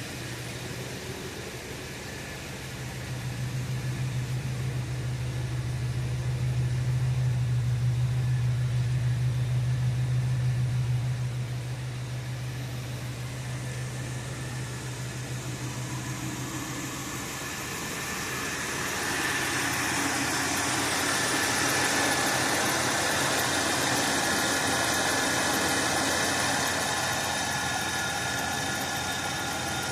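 Buick Park Avenue's engine idling shortly after a cold start. A strong low drone dominates for the first ten seconds or so, then fades, and a hissier, higher sound comes up about two-thirds of the way through.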